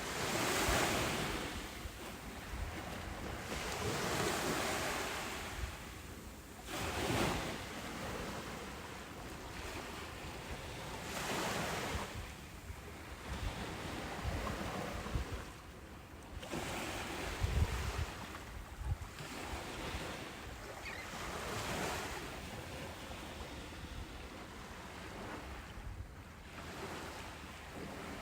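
Ocean waves breaking on a beach, the surf rising and washing out about every three to four seconds. Wind rumbles on the microphone now and then, most of all around the middle.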